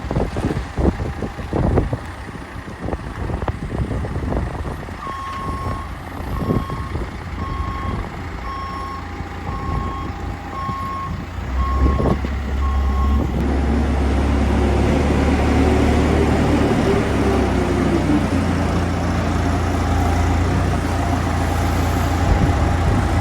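A farm machine's reversing alarm beeping about once a second, over scattered knocks and rattles, then stopping. A heavy engine starts running louder about halfway through and keeps going, its pitch rising and then falling for a few seconds.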